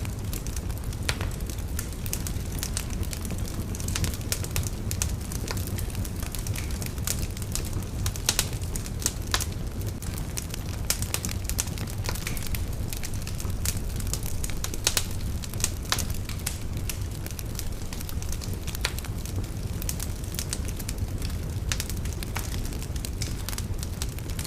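Wood fire burning in a fireplace, with a steady low rumble and frequent scattered crackles and pops.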